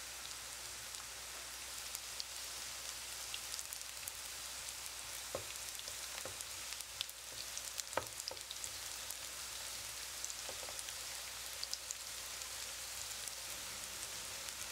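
Tempeh shallow-frying in hot oil in a pan: a steady sizzle with fine crackling spatters. A few light knocks come as a spatula turns the pieces, the sharpest about eight seconds in.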